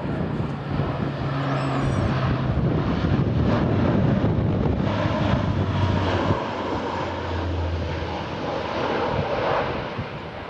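Aircraft engines passing low overhead, a loud rumbling drone whose low tone drops in pitch as it goes by and fades near the end, with wind on the microphone.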